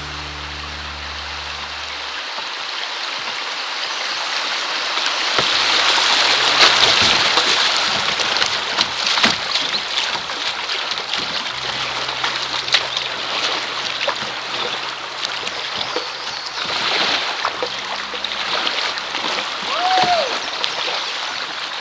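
Rushing creek water running past a kayak, swelling loudest about six seconds in and then easing, with scattered splashes of the paddle and hull in the current.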